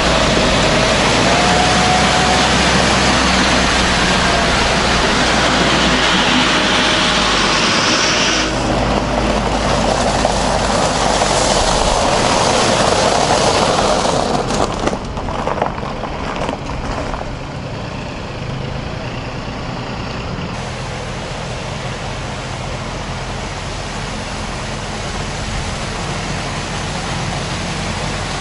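Tractor engine running steadily, under a loud rushing hiss that fades down about fifteen seconds in, leaving the engine's rumble.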